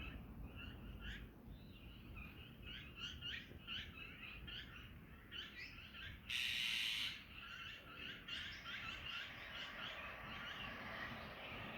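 Small birds chirping in many quick, short notes, several calls overlapping, with a brief loud burst of noise lasting under a second about six seconds in.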